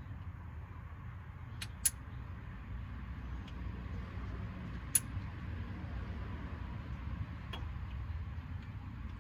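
A few sharp metallic clicks and clinks from hand tools working the flywheel bolts, the two loudest about two and five seconds in, over a low steady rumble.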